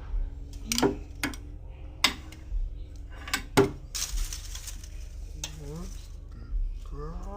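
Metal parts and hand tools clinking and knocking, with several sharp strikes and a hiss lasting about a second about four seconds in.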